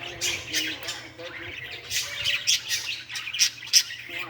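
Birds chirping and squawking in short, irregular calls, one after another.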